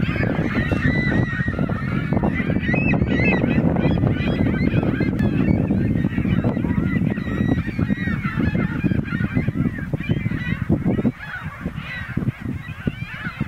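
A flock of geese honking, many short calls overlapping without pause, over a loud low rumble that eases off about eleven seconds in.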